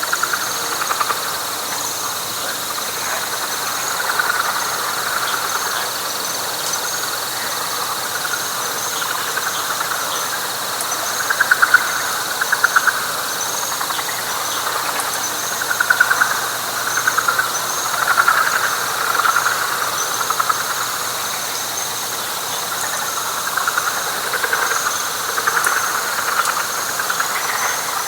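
Night frog chorus: finely pulsed rattling calls come and go in groups of a second or so, loudest around the middle, over a steady high trill and a faster, higher pulsing chirp.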